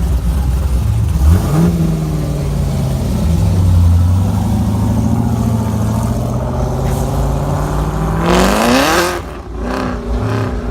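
A car engine running with a short blip about a second in, holding a steady note that creeps up, then revved hard about eight seconds in, its pitch rising sharply before it cuts off.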